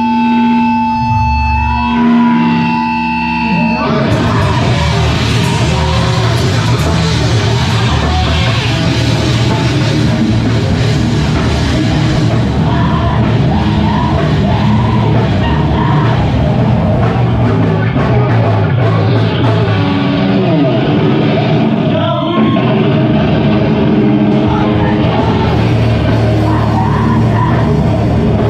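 Live heavy rock band playing loudly. It opens on a few held, ringing notes, and the full band comes in about four seconds in.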